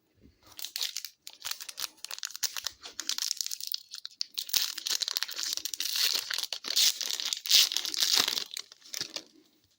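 Hockey card pack wrapper being torn open and crinkled by hand, a dense crackling that goes on for most of the stretch and is loudest in the second half.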